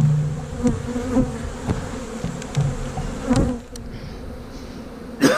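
Honey bees of a large, agitated colony buzzing around an opened hive, with a few light knocks of wooden hive boxes and frames being handled and a sharper knock near the end.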